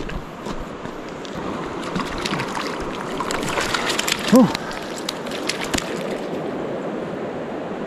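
Flowing river water, with a flurry of small splashes and drips in the middle and one short voiced sound, like a brief grunt or hum, about four seconds in.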